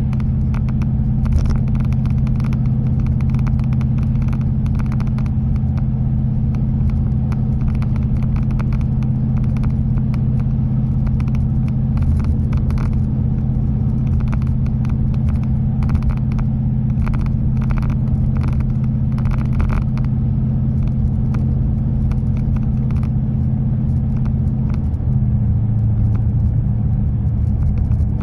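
Custom exhaust on a 1996 Toyota Celsior's 4.0-litre V8 droning inside the cabin while driving: a steady low hum over road noise that drops a little in pitch near the end.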